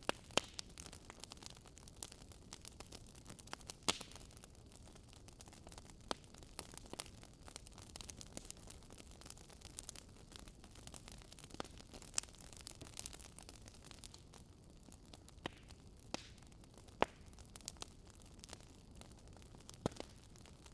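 Campfire burning: the wood crackles and pops at irregular intervals over a soft, steady hiss. A few pops are sharper and louder than the rest.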